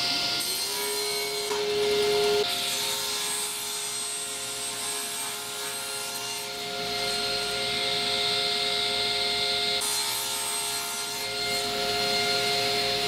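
A power saw running and cutting wood: a steady motor tone under a hiss of cutting that swells and fades a few times.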